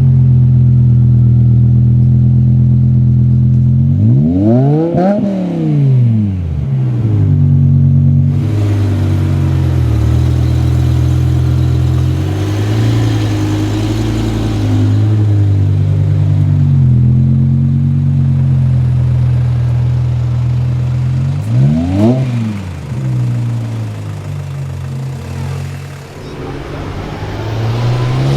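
BMW car engine idling just after start-up, revved sharply twice, about five seconds in and again about twenty-two seconds in, with the revs climbing again near the end.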